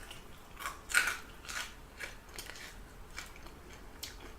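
Close-up crunching and chewing of crispy fried chicken, a run of sharp crunches with the loudest about a second in and a few more spaced out after.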